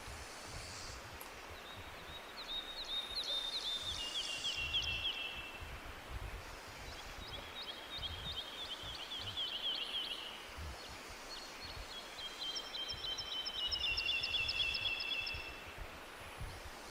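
A songbird singing three songs, each a few seconds long: a fast run of repeated high notes that steps down in pitch. Behind it runs a steady low background hiss of forest ambience.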